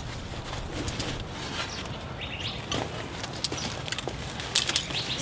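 Outdoor ambience with a few short bird chirps about two seconds in, and a couple of light clicks or knocks near the end.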